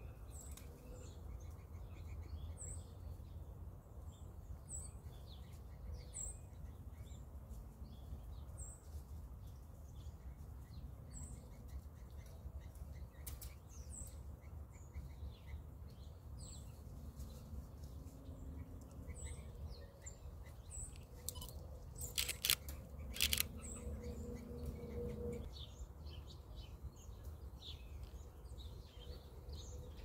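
Small birds chirping outdoors: short high notes repeating every second or two over a low steady rumble. A few sharp clicks come a little after the middle.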